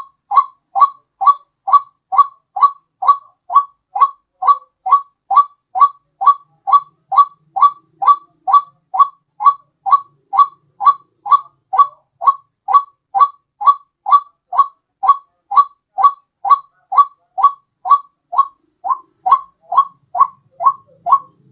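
White-breasted waterhen (ruak-ruak) lure call: one short, slightly rising note repeated very evenly, about two times a second without a break. It stops right at the end.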